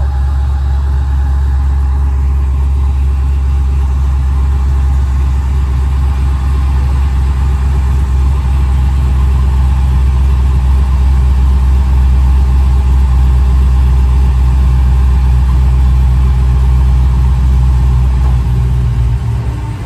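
A Chevrolet car's engine running steadily with a deep, low exhaust rumble that grows a little louder partway through.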